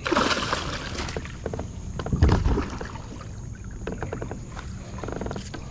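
Handling noises aboard a plastic kayak while a hooked bowfin (mudfish) is dealt with: a short noisy burst at the start, scattered knocks, and a heavy thump on the hull a little after two seconds in.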